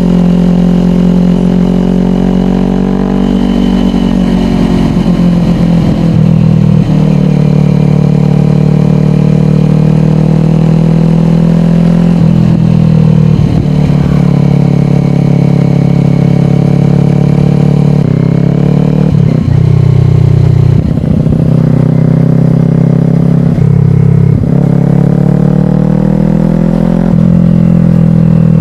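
Kawasaki Ninja 400 parallel-twin engine through a slip-on exhaust, riding under power: the engine note climbs, then drops sharply at each gear change, several times over.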